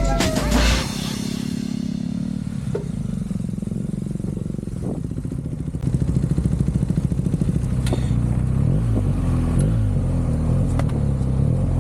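Motorcycle engine running, louder from about six seconds in, its pitch rising and falling as it revs and changes gear.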